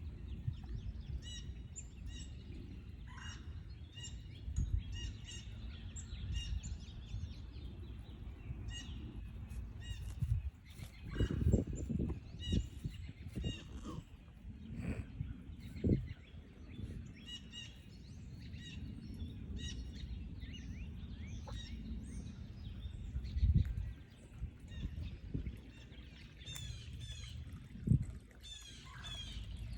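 Wild birds calling and singing, many short high chirps and trills, over a steady low outdoor rumble, with a few louder low knocks now and then.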